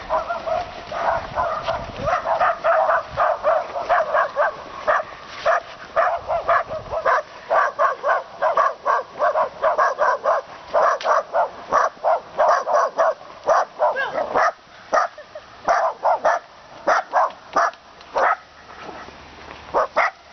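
A dog barking over and over in short, quick barks, about two or three a second, pausing briefly near the end.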